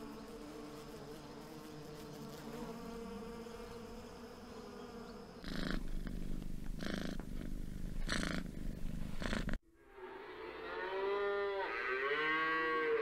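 A bee buzzing in a steady drone for about five seconds, then a cat purring in four breathy pulses about a second apart. After a sudden cut, cattle mooing in long calls that rise and fall in pitch, the loudest part.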